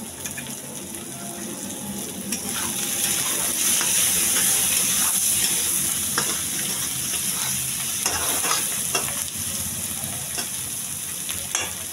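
Eggs, onion and tomato sizzling steadily in hot mustard oil in a kadhai, the sizzle swelling from about two seconds in. A metal spatula stirs and scrapes against the pan, giving short scraping knocks.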